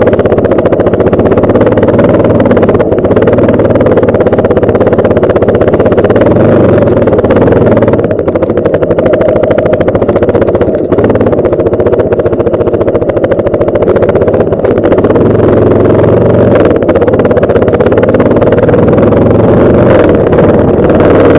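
Yamaha Lander 250 motorcycle's single-cylinder engine running steadily under way, with a constant loud rushing noise over it.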